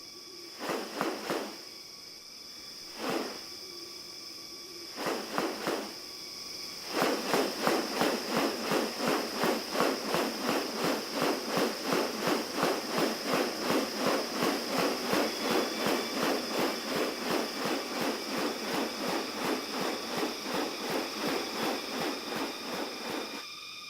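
Rainforest insects keep up a steady high-pitched drone. Over it comes a pulsing sound: a few scattered pulses at first, then from about seven seconds in a steady train of roughly three pulses a second that stops just before the end.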